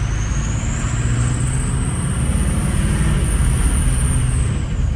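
Ford 6.0 Powerstroke V8 turbo-diesel, straight-piped through a delete pipe, pulling under throttle while the engine is not yet warmed up. The turbo whistle climbs steadily in pitch as it spools, holds, then falls away near the end as the throttle comes off, over a deep engine rumble.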